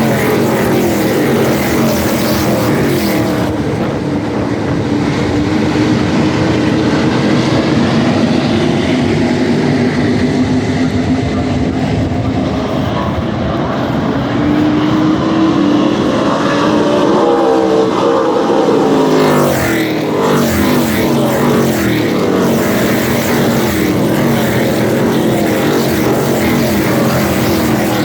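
NASCAR Craftsman Truck Series race trucks' V8 engines at racing speed, several trucks running together, their pitch sliding down as each goes by. The pack passes loudest and closest about two-thirds of the way through.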